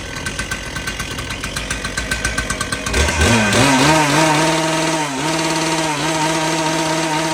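Shindaiwa ECL7412S engine cutter's two-stroke engine idling with a pulsing beat, then throttled up about three seconds in to a steady high-speed run, held for about four seconds with a brief dip midway, and then let off at the end.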